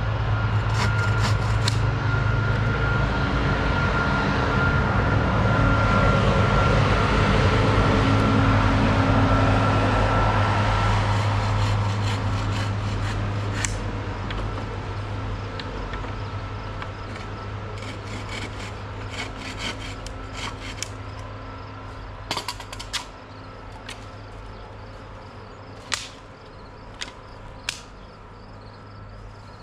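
A heavy vehicle passing with a deep rumble and a steady whine, loudest about a third of the way in and then slowly fading away. Several sharp knocks come in the second half.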